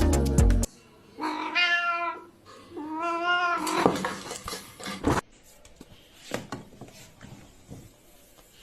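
A cat meowing twice, two long drawn-out meows, followed by a few light knocks. Background music cuts off suddenly within the first second.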